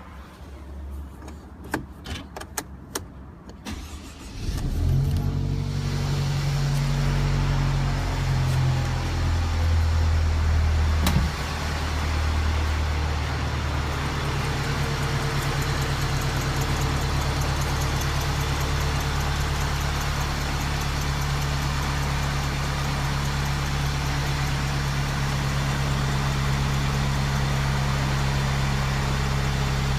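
Mercedes-Benz C-Class W204 engine started from cold. A few clicks come first, then it catches about four seconds in and runs at a fast cold idle. About eleven seconds in there is a single sharp knock, the idle drops, and it then runs steadily. A knock on cold start is the fault being shown.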